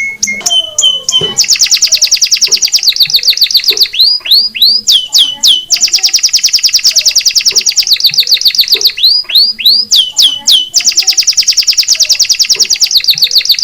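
Recorded song of cage birds, canary and lovebird: a few short steady whistles, then long fast trills of repeated chirps, broken now and then by groups of three or four downward-sweeping whistles.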